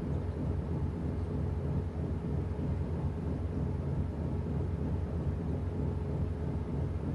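Washing machine running: a steady low rumble from the turning drum, even in level throughout.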